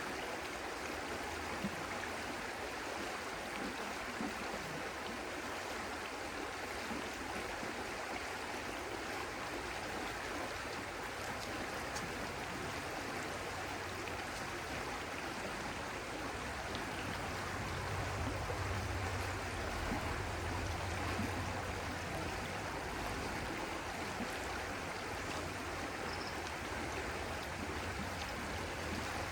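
Stream water flowing steadily. A deeper low rumble swells for a few seconds about two-thirds of the way through.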